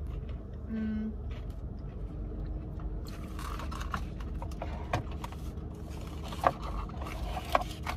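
People chewing and crunching on Korean fried cheese corn dogs with crunchy batter: a brief hummed "mm" about a second in, then scattered sharp crunches or clicks, two of them louder near the end, over a low steady rumble.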